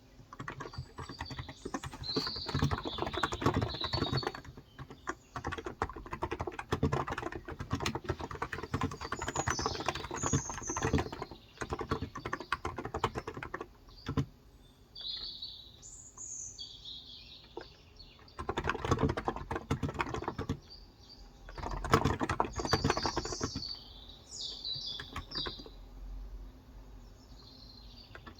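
Typing on a Cox Endeavour electrostatic capacitive (Topre-style) keyboard with light 35 g keys: quick runs of soft keystrokes that stop for a few seconds around the middle, then resume in two shorter runs. Birds chirp in the background throughout.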